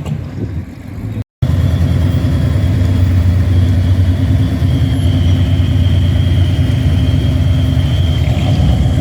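Car engine running close by, a steady low rumble that holds an even pitch. The sound cuts out for an instant about a second in.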